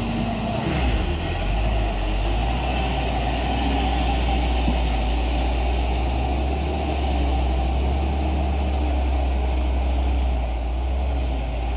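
Heavy truck diesel engines running steadily with a deep rumble during a tow up a steep climb, the engines under load.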